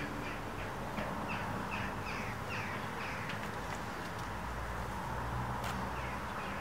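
Birds calling in a quick series of short, falling calls over a low background rumble, with a single sharp click about five and a half seconds in.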